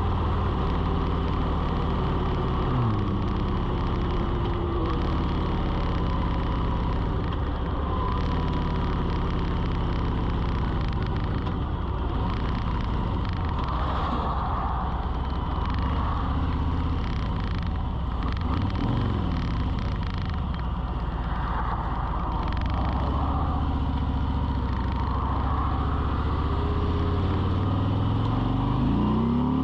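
A steady low motor hum, with a few sweeps rising and falling in pitch.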